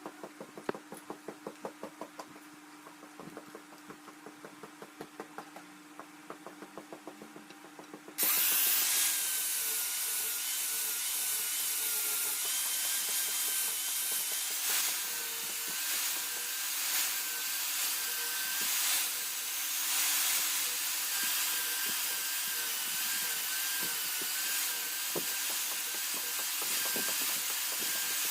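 Light, quick ticking about four times a second, then about eight seconds in an electric grinder starts suddenly and runs loud, grinding the steel of a khukuri blade, its motor whine wavering as it is pressed into the work.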